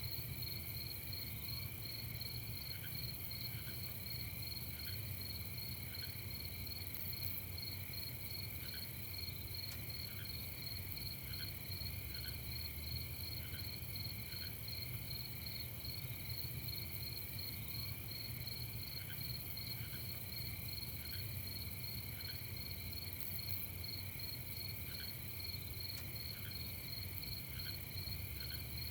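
Night chorus of crickets: steady, rapidly pulsing high trills, with short lower notes repeating every second or so and a faint low rumble beneath.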